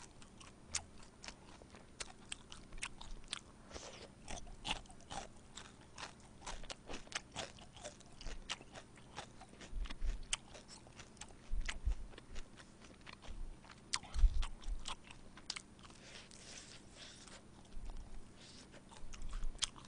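Close-miked chewing and biting of crispy soy-sauce fried chicken: a string of irregular sharp crunches, loudest in the middle stretch.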